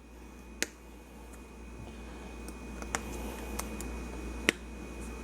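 A few faint, sharp clicks and taps of kitchen utensils, spaced a second or so apart, over a low steady hiss and hum.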